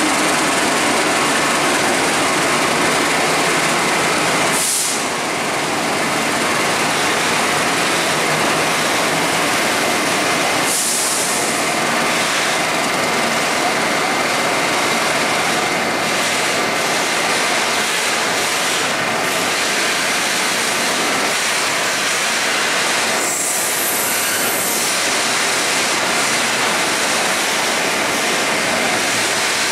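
Container wagons of a freight train rolling steadily past on the rails, a continuous noise of wheels and wagons going by. Brief high hisses come about five, eleven and twenty-three seconds in.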